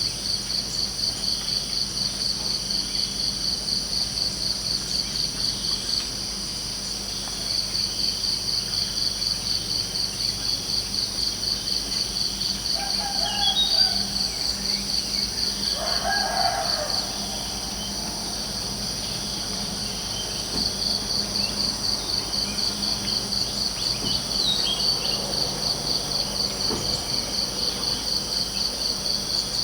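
Field crickets or similar insects chirping in rapid, even pulses that stop briefly twice, with a short bird call about halfway through.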